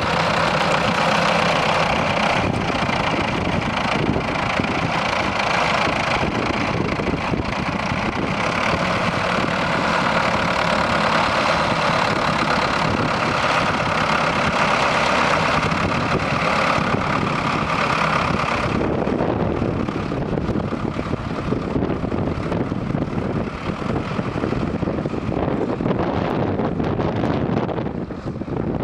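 Doe Dual Drive (Triple D) tractor's twin diesel engines running steadily while ploughing. About two-thirds of the way through the sound turns duller as its higher part drops away.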